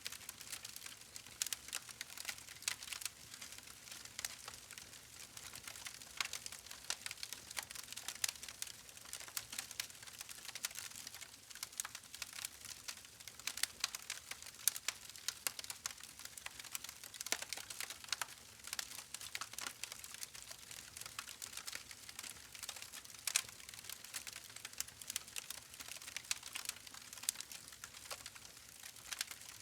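Wood fire crackling: a steady stream of small irregular pops and snaps over a soft hiss.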